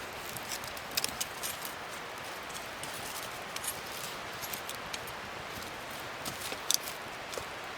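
Wood fire crackling: a steady hiss with irregular pops and snaps, the sharpest a snap about a second in and a close pair of pops near the end.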